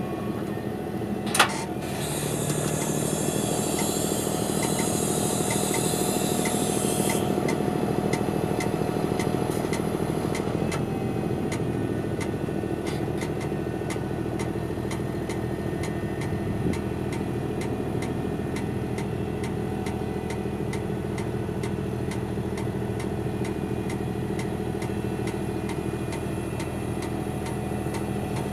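Claas Xerion tractor's diesel engine running steadily as the tractor drives off. There is a sharp click about a second in and a high hiss for several seconds after it, and a regular light ticking later on.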